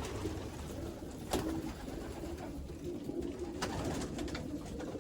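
Racing pigeons in a loft cooing together in a low, continuous murmur, with a couple of sharp knocks about a second in and again past the middle.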